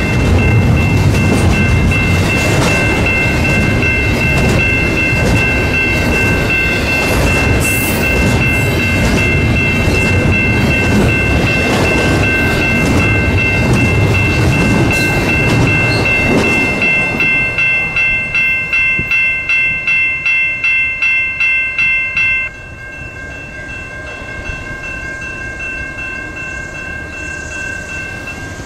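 Norfolk Southern double-stack intermodal freight train rolling past, its wheels rumbling and clacking over the rail. The rumble falls away about two-thirds of the way through as the last cars go by. A high steady ringing runs under it, pulses evenly for a few seconds, then partly cuts off and leaves a quieter tail.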